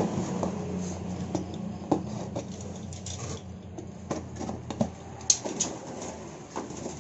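Wild-caught songbirds scrabbling and fluttering inside their shipping container: irregular light taps and scratches.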